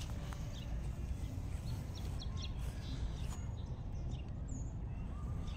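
A few faint, scattered bird chirps over a steady low rumble.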